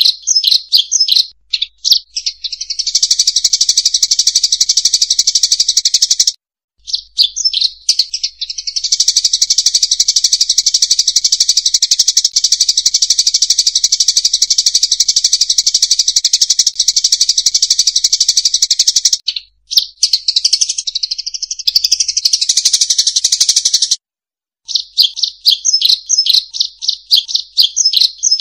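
Flock of rice-field munias (emprit sawah) chirping in rapid, dense chatter: a bird-trapping lure call. The calls run in long unbroken streams with separate chirps between, and cut off abruptly twice.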